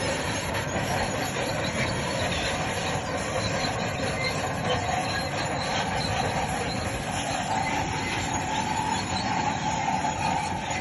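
Crawler bulldozer working, its diesel engine running under a steady, high metallic squeal from its steel tracks.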